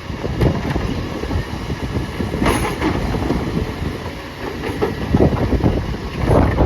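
Recycling garbage truck running with a continuous heavy rattling and clanking, and a sharp metallic clang about two and a half seconds in.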